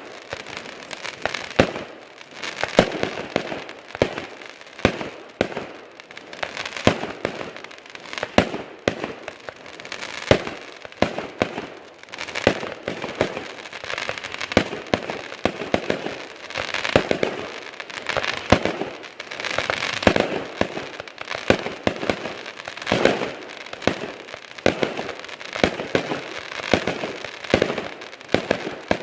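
Fireworks going off in a rapid, continuous barrage: many sharp bangs, several a second, with crackling in between.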